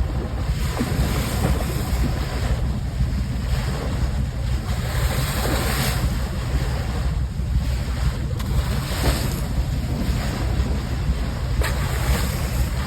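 Wind buffeting the microphone over the steady rush of water along a ship's bow, with the hiss of the bow wave swelling every couple of seconds.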